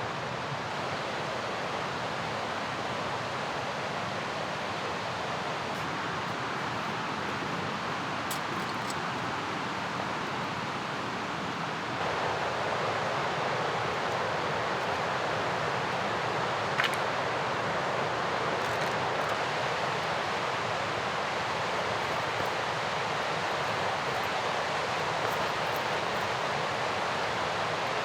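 Mountain river rushing steadily, a constant wash of water noise that steps up louder about twelve seconds in. A single faint click sounds near the middle.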